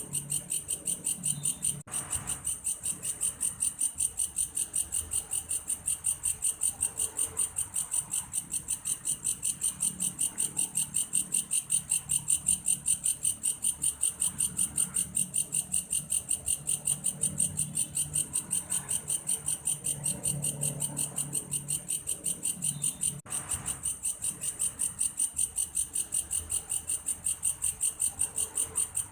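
Belalang kayu insect calling in a steady, cricket-like trill: high-pitched pulses repeated evenly at about three or four a second, over a faint low background.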